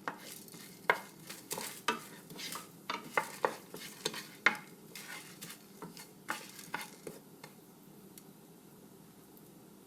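Whole spices (fennel seeds, peppercorns, cloves, cinnamon and a dried chili) being stirred in a pan with a little hot oil to roast them. A spatula scrapes and clicks against the pan irregularly over a faint sizzle, and the stirring stops about seven and a half seconds in.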